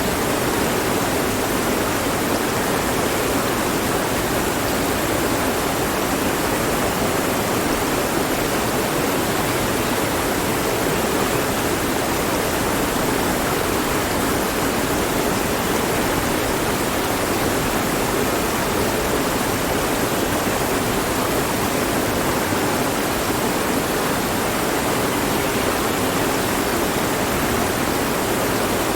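Mountain stream flowing over rocks: a steady, even rush of water with no breaks or changes.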